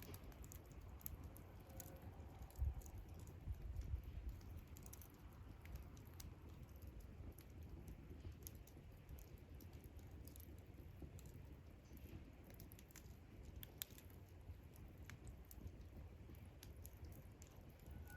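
Wood campfire crackling faintly, with scattered small pops and snaps over a low rumble, and a soft low thump about two and a half seconds in.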